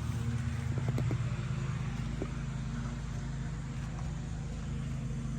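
Steady low mechanical hum, engine-like, with a few faint clicks about a second and two seconds in.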